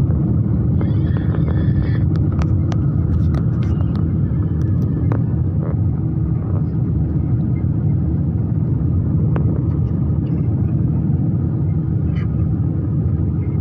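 Airliner's Rolls-Royce turbofan engine running with a steady, even low rumble, with a few faint clicks in the first half.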